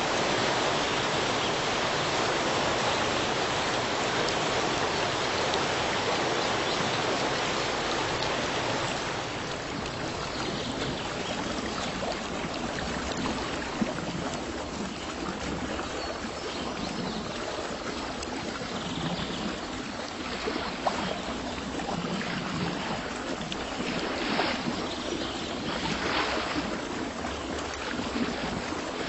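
Running water: a dense, steady rush that changes about nine seconds in to softer, uneven water noise with small splashes and a few brief swells near the end.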